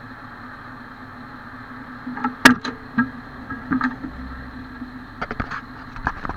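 A fire engine idling steadily, broken by a series of sharp knocks and clunks; the loudest comes about two and a half seconds in, and more follow near the end.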